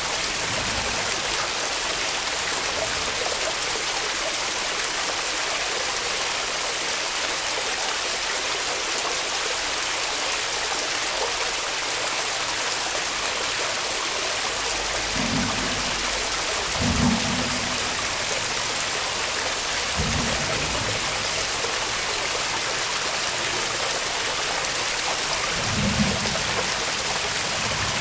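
Waterfall rushing with a steady hiss of falling water. It is broken a few times in the second half by brief low thumps.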